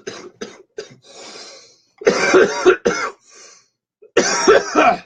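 A man coughing in fits after inhaling cannabis smoke: a quick cluster of short coughs, a breathy exhale, then two harder hacking bouts near the middle and the end.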